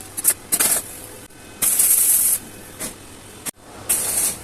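Cats hissing in a fight: several sharp hisses, short ones at first, then a longer one lasting nearly a second, and another near the end.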